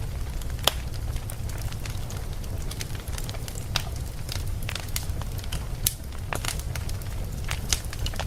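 Wood fire burning with a steady low rumble and irregular sharp crackles and pops, the loudest pops about a second in and near six seconds in.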